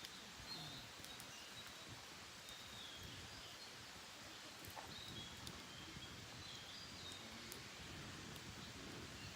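Wild songbirds chirping faintly, short high calls of a few notes repeated every second or two, over a steady soft hiss of outdoor ambience. A few faint clicks are scattered through it.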